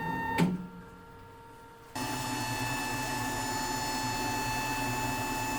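FLUX laser engraver with its rotary attachment running on a glass, a steady hum and whine. A click about half a second in, then it drops quieter and starts up again about two seconds in.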